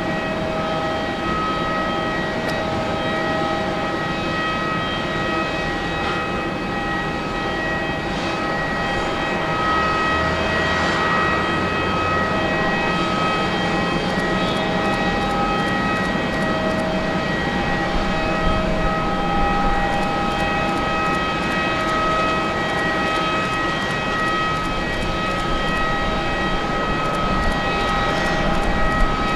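Airbus A350-941's Rolls-Royce Trent XWB turbofan engines running at low thrust: a steady whine of several high held tones over a broad rumble.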